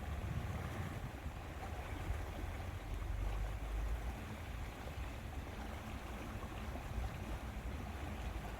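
Small waves lapping on a lake with wind, a steady wash over a low rumble that does not let up.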